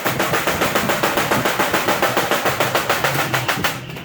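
Rapid, even hammer strikes on stainless steel sheet, about eight a second, with a brief pause near the end.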